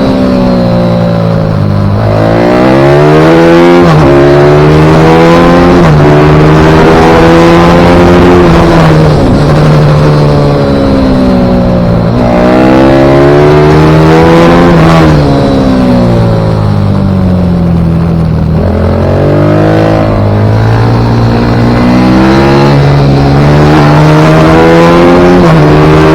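Pit bike engine at racing revs, the pitch climbing and falling again and again through the lap, with sudden drops at gear changes and under braking.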